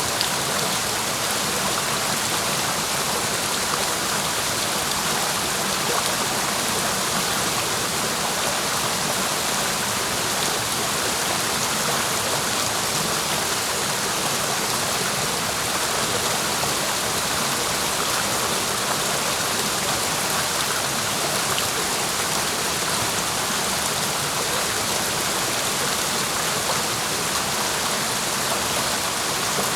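Clear mountain stream rushing over rocks: a steady, even rush of water.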